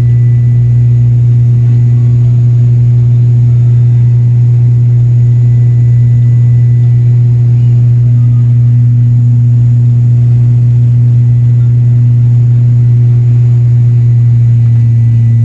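Steady aircraft engine and propeller drone heard from inside the cabin: a loud, even, deep hum with a few fainter higher overtones and no change in pitch.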